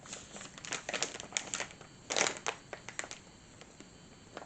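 Small plastic packet of screws crinkling and clicking as it is handled and checked, busiest about halfway through and dying away near the end.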